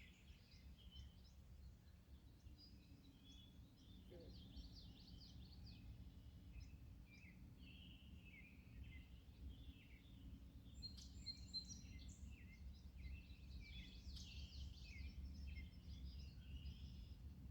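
Several birds chirping and singing faintly, with short calls and trills coming thickest in the second half, over a steady low rumble.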